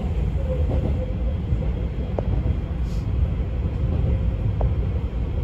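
Izukyu 2100 series electric train running, heard from inside the car: a steady low rumble with a faint hum, and a few sharp clicks from the wheels on the track.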